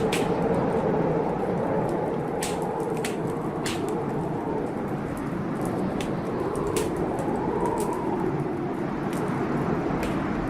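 Wood fire crackling in a fireplace, with scattered sharp pops, over the steady noise of a storm's rain and thunder.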